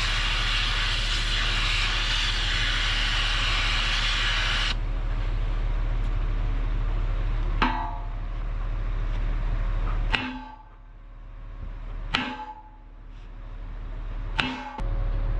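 Steel struck four times, about two seconds apart, each blow a ringing metal clang, over a steady low machine hum. A loud steady hiss runs over the hum until it cuts off about five seconds in.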